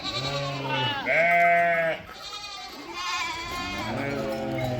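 Several sheep or goat-type livestock bleating: a run of wavering calls, one after another and partly overlapping, the loudest about a second in.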